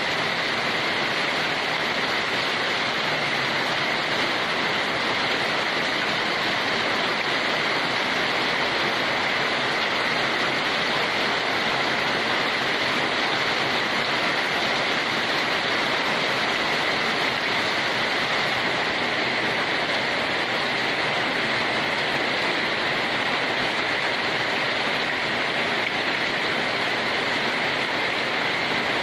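Steady, unbroken rain with no single drops standing out and no change in level.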